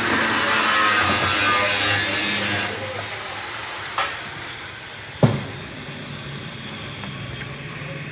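A loud, steady hissing machine noise cuts off suddenly about three seconds in, followed by a light knock and then one sharp, loud knock, over a low steady hum.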